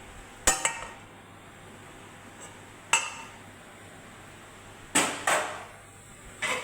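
Sharp knocks and clinks of kitchen utensils against cookware and dishes: one about half a second in, another near three seconds, and a quick pair around five seconds, some with a brief ring.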